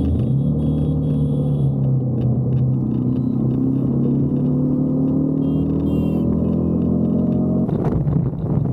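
Motorcycle engine running on the road, its pitch climbing steadily as it pulls through a gear, then dropping sharply near the end at a gear change.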